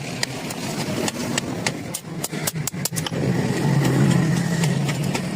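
A motor or engine running steadily, growing louder about three seconds in, with many short sharp knocks throughout.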